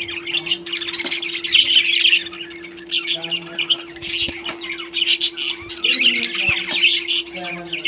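Pet parrots chirping and chattering without a break, with sharp squawks mixed in and a steady low hum underneath.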